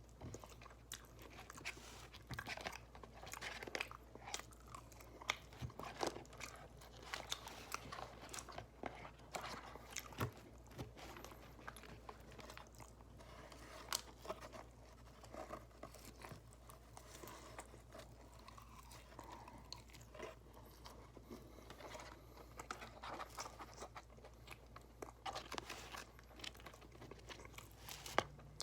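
Close-up chewing of loaded fries with brisket, melted cheese and barbecue sauce: a steady run of irregular wet mouth smacks and soft crunches, with no pauses.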